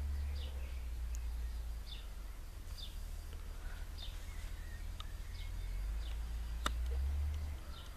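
Small birds chirping, short falling chirps repeated about once a second, over a steady low rumble; a single sharp click sounds near the end.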